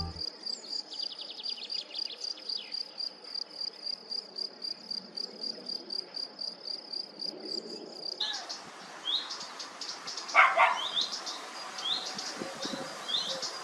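A cricket chirping, a steady run of identical high pulses about four a second. About eight seconds in this gives way to birdsong: scattered short high chirps and one louder, lower call.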